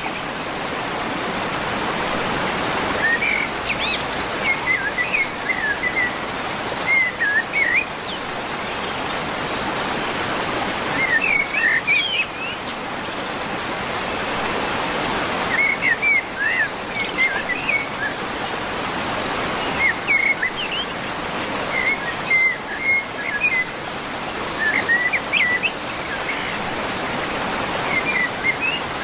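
A songbird sings short phrases of quick chirps every few seconds over a steady rush of running water.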